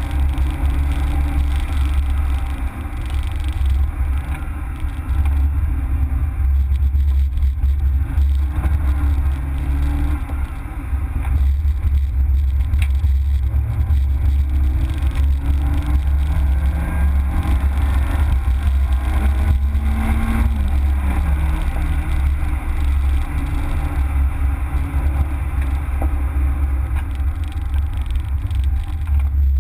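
Citroën Saxo VTS 16v's 1.6-litre sixteen-valve four-cylinder engine heard from on board as the car is driven, its note sliding up and down with the revs and dropping sharply about twenty seconds in, over a steady heavy low rumble.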